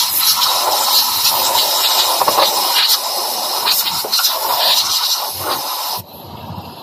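A loud, steady hiss of rushing air that cuts off suddenly about six seconds in.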